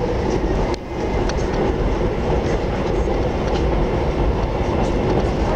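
Running noise of an ES1 Lastochka (Siemens Desiro RUS) electric multiple unit heard inside the carriage: a steady rumble of wheels on rail with faint scattered clicks from the track. The level dips briefly a little under a second in.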